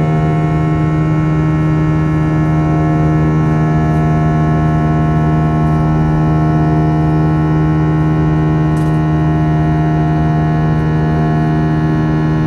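Airbus A321's IAE V2500 turbofan engines and airflow heard from inside the cabin after takeoff: a loud, steady drone with a low hum and several fixed tones.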